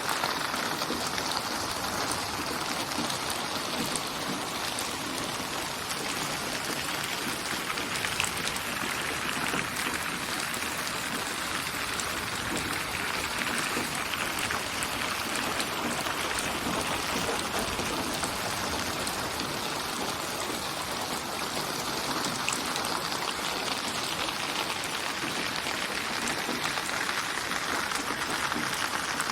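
Steady rain falling, an even hiss of many raindrops that swells and eases slowly every several seconds.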